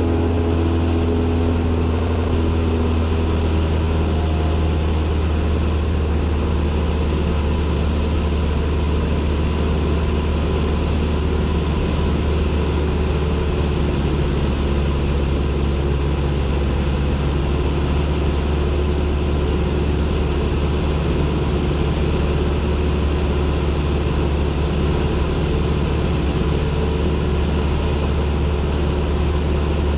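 Cessna 172N's four-cylinder Lycoming engine and propeller droning steadily, heard from inside the cockpit as a loud, unbroken low hum.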